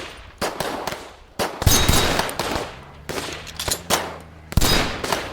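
Movie battle-scene gunfire from WWII small arms: a series of sharp shots and short bursts, each trailing off in an echo. The loudest come about a second and a half in and again near the end.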